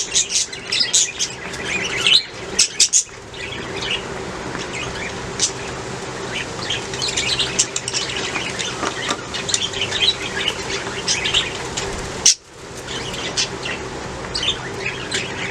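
Several budgerigars chirping and warbling together in quick, overlapping chirps and clicks, over a steady low hum.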